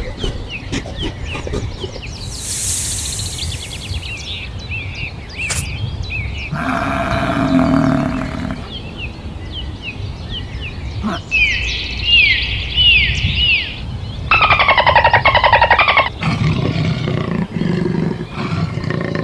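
Different animal calls, cut one after another: short bird chirps repeating throughout, broken by several louder calls that each start and stop abruptly.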